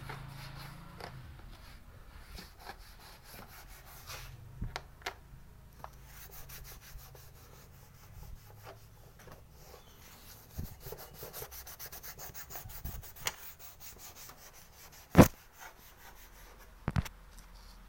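Rapid rubbing strokes of hand wiping over a motorbike's body panel while polishing it. A sharp knock comes about fifteen seconds in, and two lighter ones near the end.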